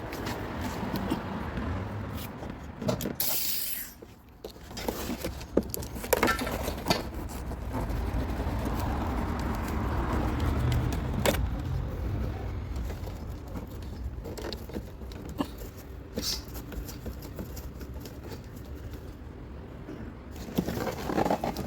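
Metal clinks and knocks of tools and parts being handled over a steady low hum, with a short hiss about three seconds in.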